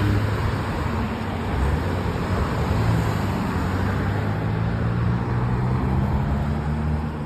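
Road traffic going by: car engines and tyre noise in a continuous stream.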